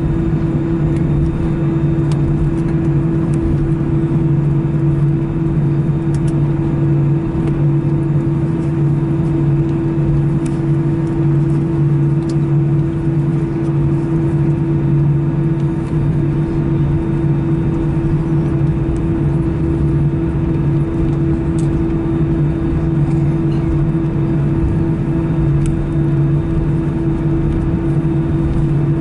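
Cabin noise of an Airbus A319-111 taxiing after landing: its CFM56-5B engines idling, a steady hum with two low droning tones, with a few faint ticks.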